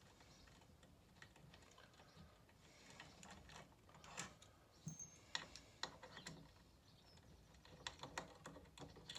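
Faint, irregular clicks and taps of hand tools and metal parts being handled while working on a stairlift, a few sharper clicks in the second half.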